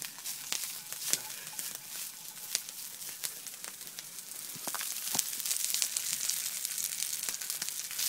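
Egg omelette with sausage and wild garlic sizzling in a hot frying pan over a campfire: a steady high hiss with frequent sharp pops and crackles, getting a little louder about five seconds in.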